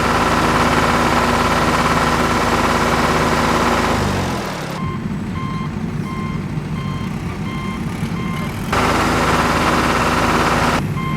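DIY tractor's engine running steadily, winding down about four seconds in. A reversing alarm then beeps about twice a second. The engine comes back near nine seconds, and the beeping starts again near the end.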